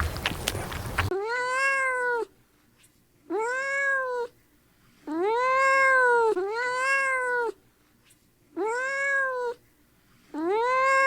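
Domestic cat meowing six times, each meow about a second long and rising then falling in pitch, with short pauses between. The meows start after about a second of crackling noise from a different sound.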